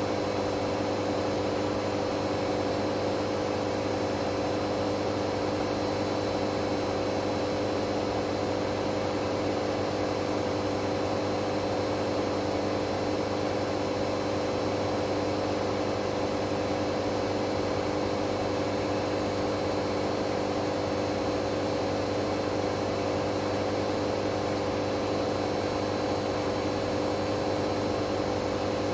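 Hoover Dynamic Next washing machine on a spin-only cycle, its drum spinning at a steady speed with an even motor hum and whine that holds constant without rising or falling.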